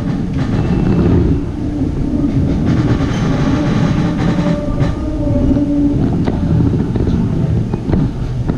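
Train running noise heard inside a 25T passenger coach: a steady rumble of wheels on the rails, with a faint held tone for a few seconds in the middle and a few sharp clicks in the second half.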